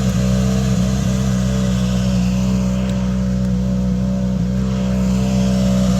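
Rally car engine running at steady, unchanging revs.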